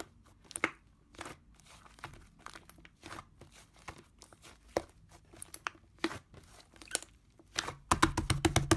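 Slime being squished and poked by hand, giving scattered sticky crackles and pops. A fast run of clicks starts near the end.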